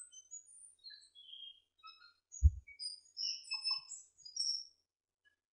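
Small birds chirping and twittering in quick, varied high notes, with one low thump about halfway through.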